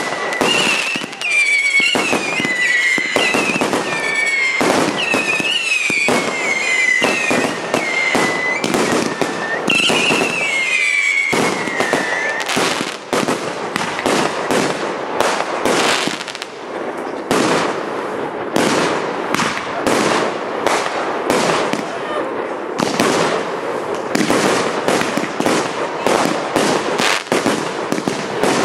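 Firework cake barrage firing: a rapid, continuous run of bangs and crackling shell bursts. For about the first twelve seconds a wavering whistle tone sounds over it, repeatedly sliding down in pitch about once a second.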